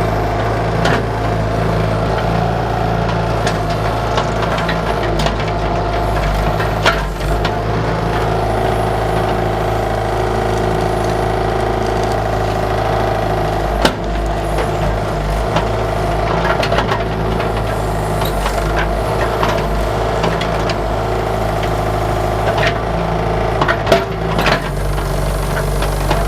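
Bobcat 331 mini excavator's diesel engine running steadily under work, with scattered clanks and knocks as the bucket digs and strikes blocks and dirt, a few sharper ones near the end.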